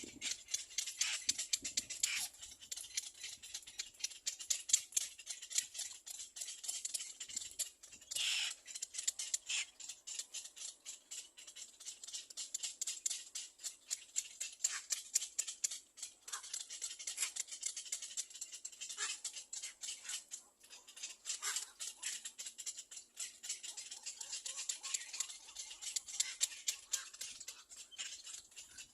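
Little black cormorant chick giving a fast, raspy, high-pitched chatter of many short ticks a second, rising and falling in loudness.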